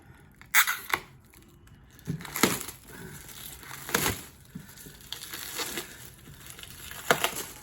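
Packaging being handled and crumpled: irregular crackling and rustling of paper and plastic wrap, with several sharper crackles spread through.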